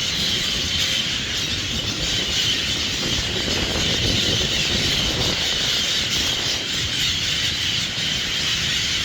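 A large flock of small parrots screeching and chattering all at once in a dense, continuous high-pitched din, over a low rumble.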